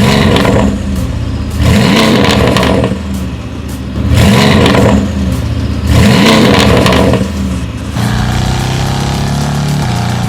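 Mercedes-AMG GT S twin-turbo V8 through an iPE cat-bypass and valved cat-back exhaust, revved in four short blips with the pitch rising and falling each time. It then settles to a steady idle about eight seconds in.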